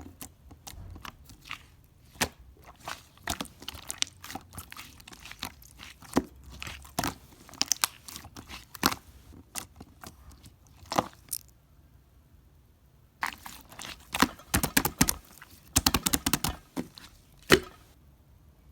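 Close-up crunching of someone chewing crisp food: irregular sharp crunches, a pause of under two seconds past the middle, then a quick run of crunches.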